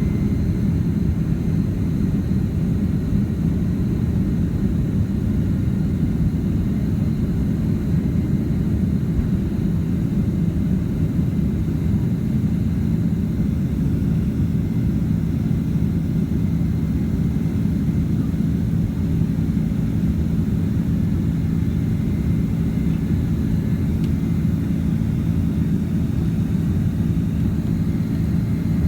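Steady, unchanging cabin rumble of a Boeing 767-300ER's jet engines and airflow, heard from a window seat inside the cabin, with a low drone and faint steady whine tones over it.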